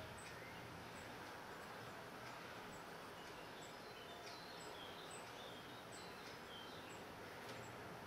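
Faint steady background hiss with a few faint, high bird chirps, mostly between about four and six and a half seconds in.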